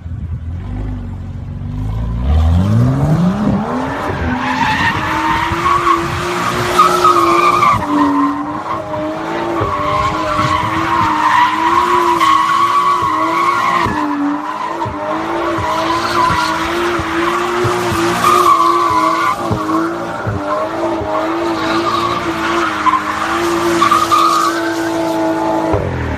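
Car engine revving up over the first few seconds, then held at high revs while the tyres squeal continuously, as in a burnout or drift. The squeal wavers in pitch throughout.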